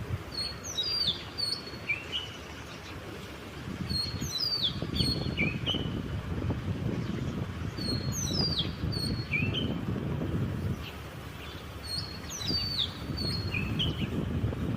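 A songbird repeating the same short song phrase four times, about every four seconds: a high steady note, quick falling whistles, then a short rising note. A low rumble runs underneath.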